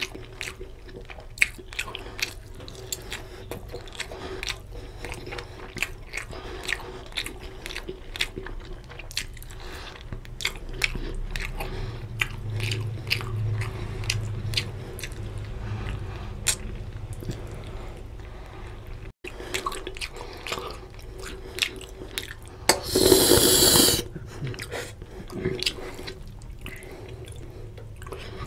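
Close-miked chewing and wet mouth smacking while eating mutton curry and rice by hand, with many small clicks. Near the end, a louder noisy rush lasting about a second.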